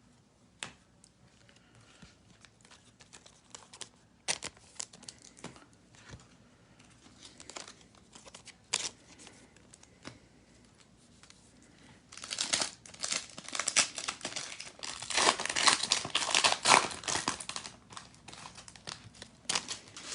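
Faint clicks and taps of cards being handled, then about twelve seconds in, a trading-card pack's foil wrapper crinkling and tearing open for several seconds.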